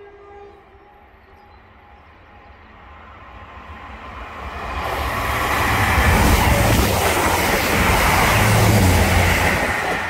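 Diesel multiple unit passing through the station at speed. The engine rumble and wheel rush build over about five seconds, stay loud for about four, then start to fall away near the end.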